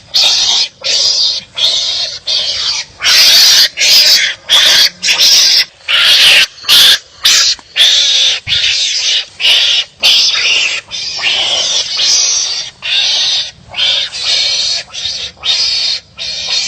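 Wild animals barking harshly at each other in quick repeated calls, about two a second, with a few longer and louder calls in the middle.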